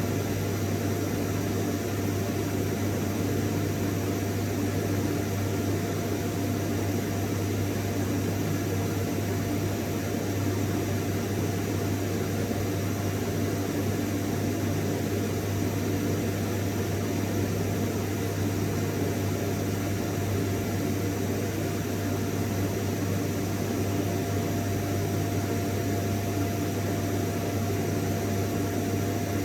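Vacuum cleaner motor running steadily, a constant low hum with a thin whine over a hiss of rushing air, unchanging throughout.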